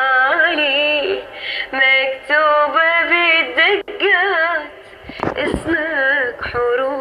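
A woman singing drawn-out, ornamented notes in an Arabic pop style, the pitch wavering and bending through melismatic runs, with a brief break about five seconds in.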